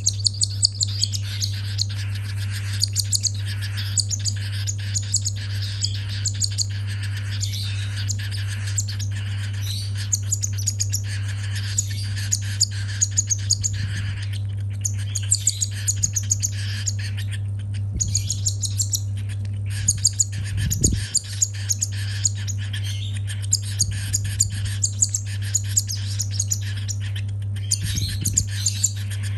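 Baby cockatiel giving continuous rapid, high food-begging chirps while being hand-fed, with a steady low hum underneath.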